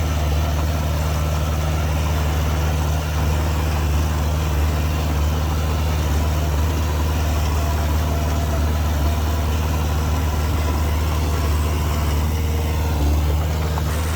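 Diesel engine of heavy earthmoving machinery running steadily at a low, even speed, with a deep hum.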